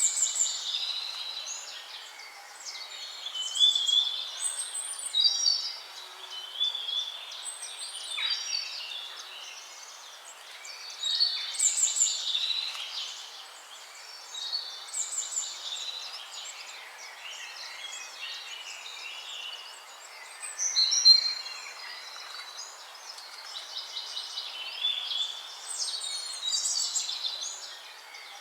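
A chorus of songbirds singing, several birds' chirps, trills and whistled phrases overlapping in bouts that swell every few seconds.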